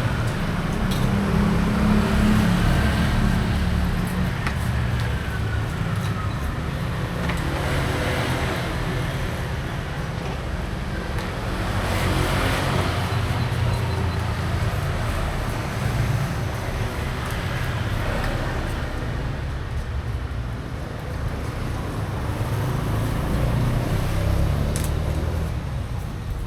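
Motor-vehicle traffic noise: engines running with a steady low rumble, loudest about two seconds in.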